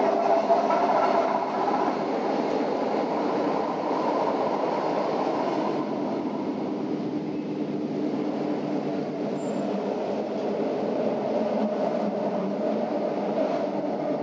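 Electric narrow-gauge mountain train running downhill, its steady rumble and wheel noise heard from inside the carriage, with a faint steady whine mixed in.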